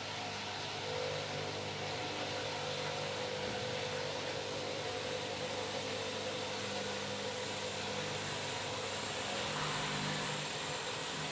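Washing machine running with a bed linen load: a steady motor hum and whir from the drum, with no break or change in pace.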